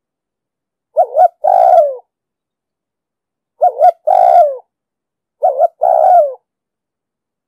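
Spotted dove cooing: three calls about two seconds apart, each two short notes followed by a longer, falling coo.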